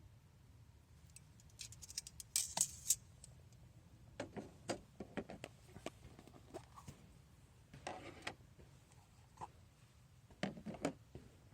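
Irregular light clicks, taps and brief rustles, as of small objects being handled, in four loose clusters over a low steady background.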